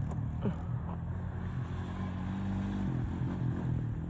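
Utility ATV engine running on the track, its pitch rising a little around the middle and then easing off.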